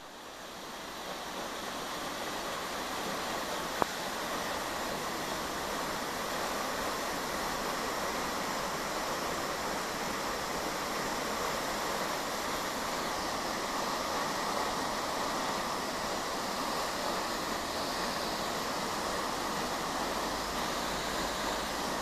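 Artificial waterfall: a steady rush of falling water, fading in over the first second or so. A single sharp click about four seconds in.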